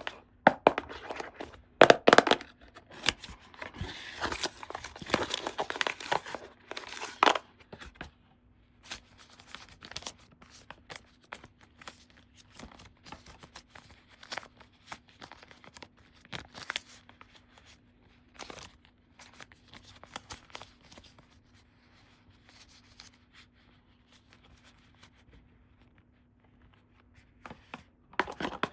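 Toy packaging being torn open and crinkled, with scattered small clicks and taps from handling. It is loudest over the first several seconds, then turns into softer, sparser rustling and clicking.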